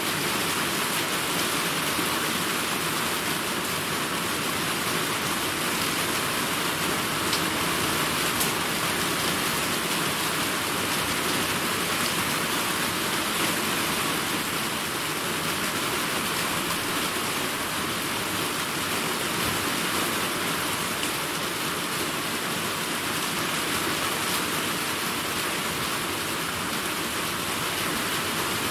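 Steady rainfall: an even, unbroken hiss with a few faint drop ticks, and no thunder.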